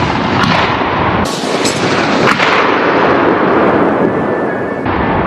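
Bofors 40 mm anti-aircraft autocannon firing: a loud continuous rumble from the blast, with a few sharper cracks about half a second, a second and a half and two seconds in.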